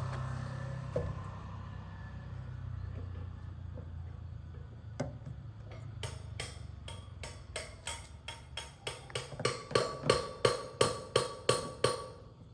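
A steady machine hum, then from about halfway a run of sharp, evenly spaced knocks, about two to three a second, growing louder before stopping suddenly near the end.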